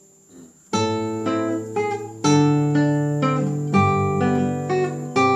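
Classical guitar played fingerstyle: a held bass note under plucked, arpeggiated chord notes, starting about a second in, with new bass notes struck twice more.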